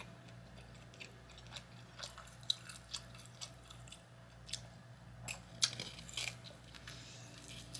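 A person chewing food, with soft irregular crunches and wet mouth clicks; the loudest bite comes a little past halfway.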